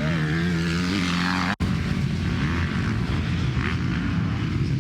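Motocross dirt bike engines running, with a steady engine drone that breaks off abruptly about a second and a half in, then a rougher mix of bikes running.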